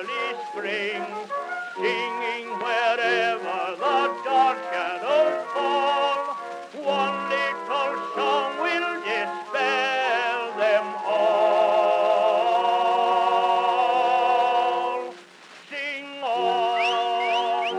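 Early acoustic recording from an Edison black-wax cylinder: a male vocal duet with orchestra accompaniment, singing with vibrato, with a long held note in the middle of the passage. The sound is thin, with no bass.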